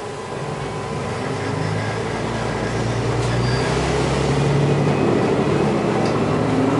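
Diesel railcar engine running under power, rising steadily in pitch and loudness as the train accelerates, with a steady rumble of running noise.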